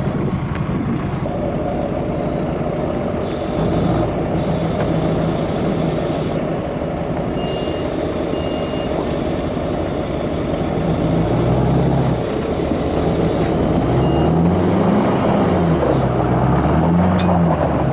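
Diesel engines running under load during a tow pull, the revs swinging up and down several times in the second half as the throttle is worked.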